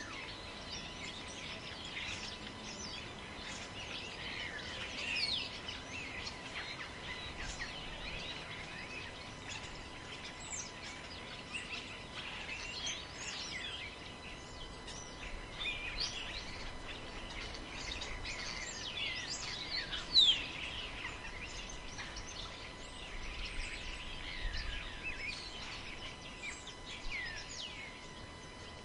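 Forest ambience: many birds chirping and whistling without a break over a low rumble of wind. A single brief, loud thump stands out about two-thirds of the way through.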